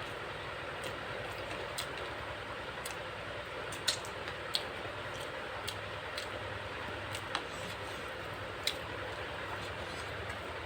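Eating sounds: small, irregular clicks of chewing and lip smacks, about one a second, over a steady background hum and hiss.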